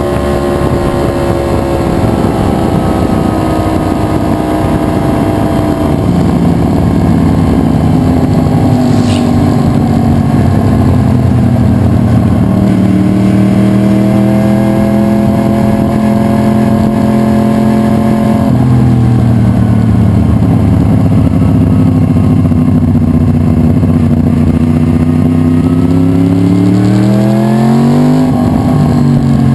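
2011 Yamaha R1's crossplane inline-four engine running loud and steady, its pitch slowly sinking and rising. The pitch drops suddenly about eighteen seconds in, then climbs quickly and falls back near the end.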